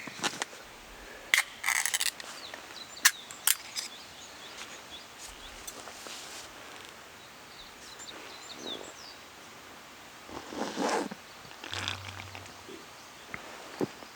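Wild birds chirping in early-summer woodland, with a few sharp clicks and knocks in the first few seconds and a brief rustle near the end.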